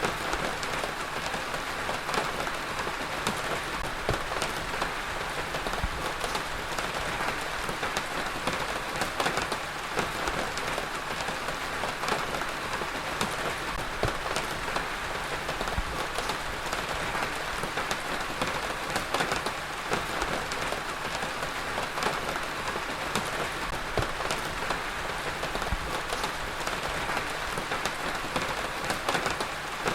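Heavy rain falling steadily on a surface, a dense even hiss with many individual drops pattering through it.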